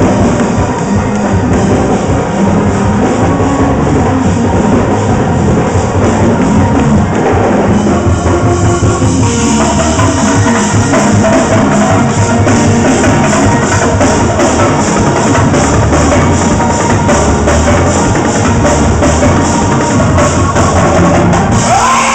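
Live gospel praise-break music: a band led by a drum kit, with bass drum and cymbals, playing loud and without a break.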